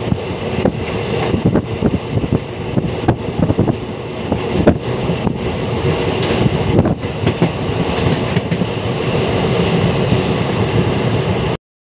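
Passenger train coach running at speed, heard from inside by an open window: wheels and coach rattling and knocking on the track over a steady running noise. The sound cuts out for a moment near the end.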